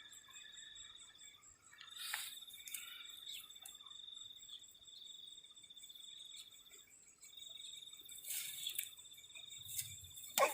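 Crickets trilling in a steady, high, pulsing note that breaks off briefly twice. Two short scratchy rustles come about two seconds in and again near the end.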